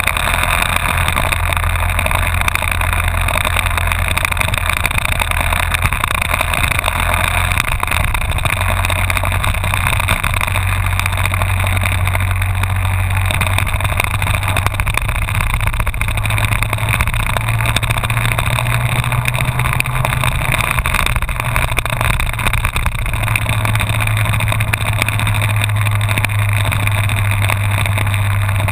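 Honda VFR1200F V4 motorcycle engine running at cruising speed, its low hum stepping up and down in pitch a few times, over a steady rush of wind and road noise.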